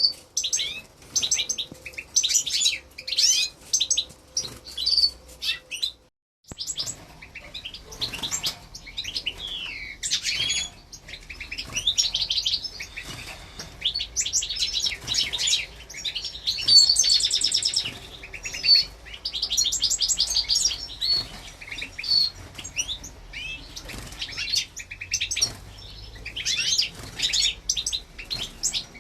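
Young goldfinch × canary mules (hybrid finches) chirping and twittering in rapid high trills, with a brief break about six seconds in.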